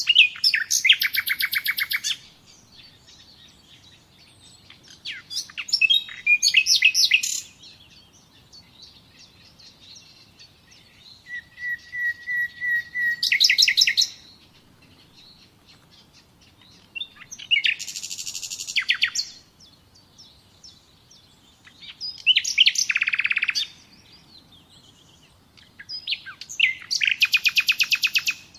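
A songbird singing repeated songs of rapid high trilled notes, each about two to three seconds long, six times with short pauses between them.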